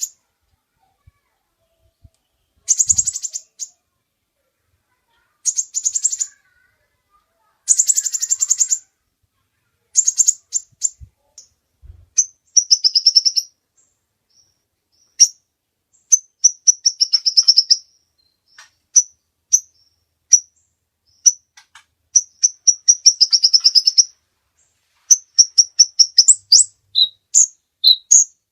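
Kolibri ninja (brown-throated sunbird) singing loud, high, rapid trills of about a second each, then a quickening series of sharp, short chips and warbled notes.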